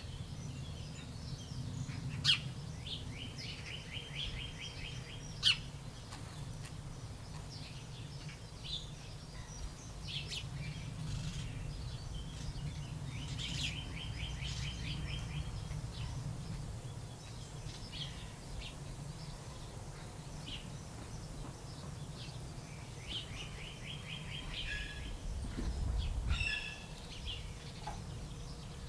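Small birds chirping and calling, with sharp chips and a rapid trilled song of evenly spaced notes, heard three times, over a steady low rumble.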